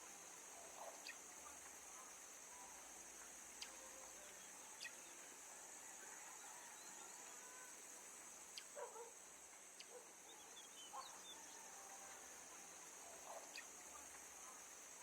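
Faint forest ambience: a steady high insect drone, with scattered short bird calls and a few small clicks.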